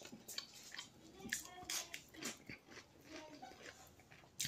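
A person chewing and biting a mouthful of fried fish and chips, faint, with many short soft mouth clicks.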